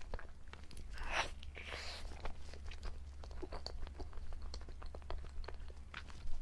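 Close-up eating sounds of a soft dessert: bites and chewing with many small wet mouth clicks, and a longer rustling smear about a second in. A steady low hum runs underneath.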